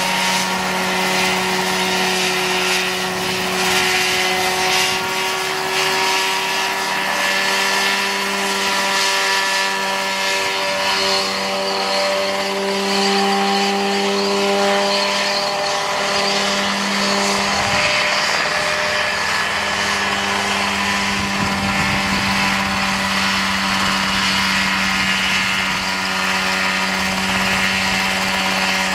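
Engine of a home-made Mosquito-style helicopter running at a steady speed with an even buzzing note. Its pitch wavers slightly partway through.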